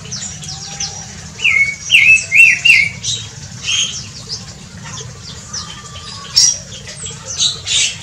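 Aviary birds calling: many short, high chirps, with four loud, sharp calls in quick succession about a second and a half in, over a steady low background noise.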